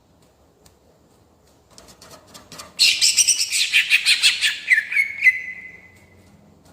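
Greater green leafbird (cucak ijo) singing in a rolling style: after a quiet start with faint clicks and a few soft notes, a loud, rapid run of high chirping notes begins about three seconds in and ends in a held note that fades away.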